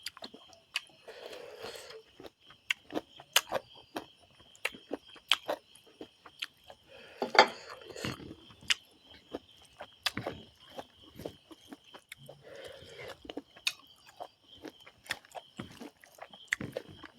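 Close-up eating sounds: wet lip smacks and chewing, many sharp smacking clicks with short bursts of mushy chewing. A steady high-pitched hum runs underneath.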